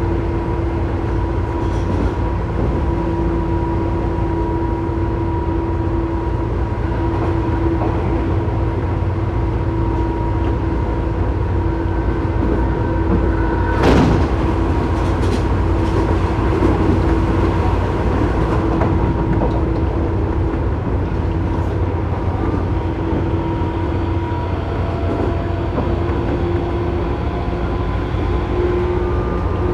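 Tobu 9000 series electric train running, heard from inside car MoHa 9204 above its armature chopper: steady rumble of the running gear under a steady chopper whine, the abnormal noise from this one car's chopper. A brief, sharper clatter about 14 seconds in.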